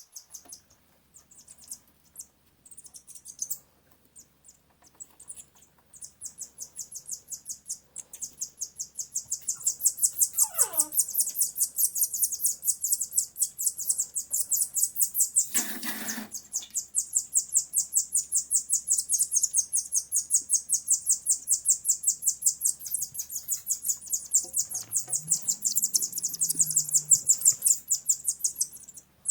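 Rapid, high-pitched chirping in a fast, steady pulse that builds up a few seconds in. A brief falling whistle comes about a third of the way through, and a short loud burst about halfway.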